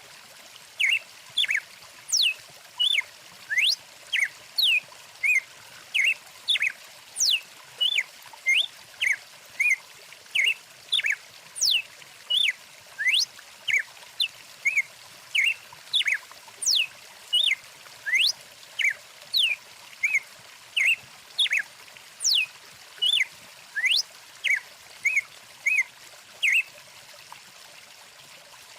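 Birds singing over a flowing stream: short chirps and quick rising and falling whistles, about two a second, over the steady rush of water. The calls start about a second in and stop a couple of seconds before the end, leaving the water alone.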